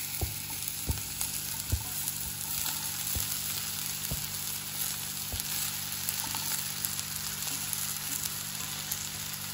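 Red amaranth leaves going into a hot kadhai of frying onion and stalks, sizzling steadily, with a few light knocks in the first four seconds.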